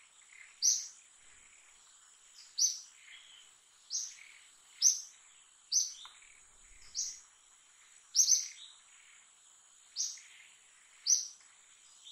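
A bird calling over and over: a short, high chirp that drops in pitch, repeated about ten times at roughly one-second intervals, with a faint steady high tone underneath.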